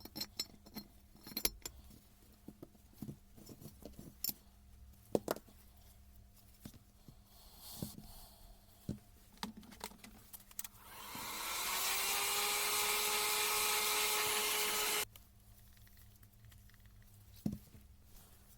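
Small metal parts and tools clicking and knocking as they are handled. Then a power tool spins up over about a second, runs steadily at a high whirr for about four seconds, and stops suddenly.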